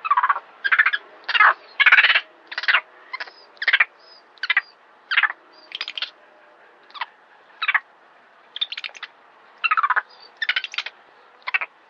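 A series of short, high-pitched animal calls, about twenty in all, coming at uneven intervals.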